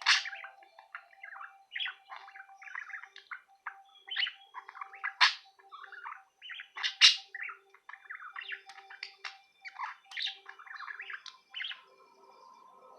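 Male budgerigar warbling and chattering: a fast, continuous run of chirps, clicks and squeaky notes, with a few sharp loud chirps, the loudest about seven seconds in.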